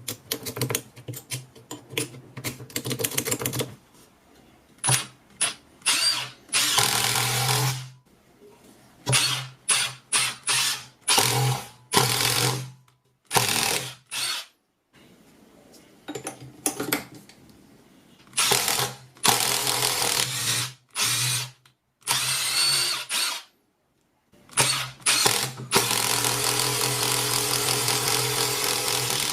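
Milwaukee cordless electric screwdriver motor run in bursts: a rapid string of short trigger pulls, then on-off runs of a second or two, and one longer steady run of about four seconds near the end.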